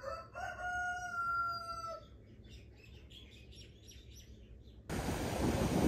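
A rooster crowing: one long call of about two seconds whose pitch sags slightly toward the end, followed by faint chirps of small birds. About five seconds in it cuts abruptly to a steady rushing noise.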